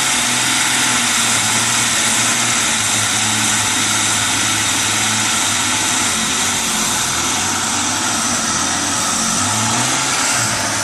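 Jeep Cherokee's 4.0-litre straight-six engine running steadily at about idle, with a strong even hiss over the low engine hum.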